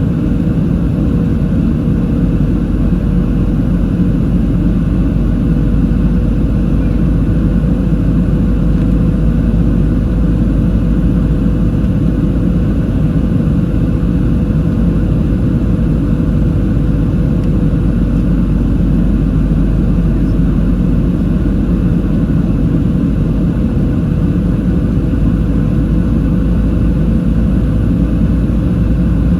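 Cabin noise inside a Boeing 737-700 in flight: the steady roar of the CFM56 engines and airflow past the fuselage, with a thin steady hum running through it.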